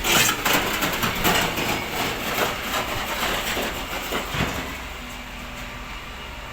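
Waste collection truck clattering and rattling, a quick run of knocks and bangs for about four seconds, then settling to a steady engine hum.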